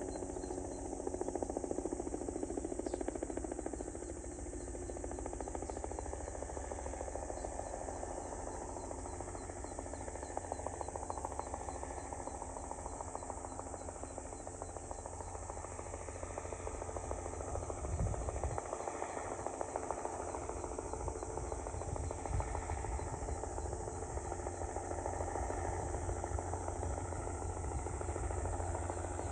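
Insects chirring steadily with a fast, even ticking, over a low steady rumble that swells briefly about two-thirds of the way through.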